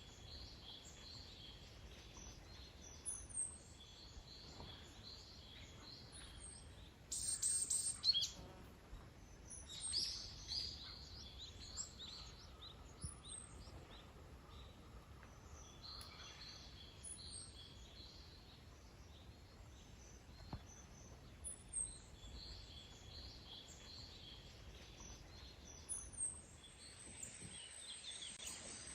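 Small wild birds singing and calling, repeated short high chirps coming and going, over a faint steady background hiss. A louder burst of sound about seven seconds in.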